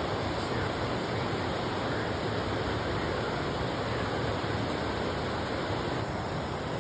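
Steady rushing of river water, with rain falling.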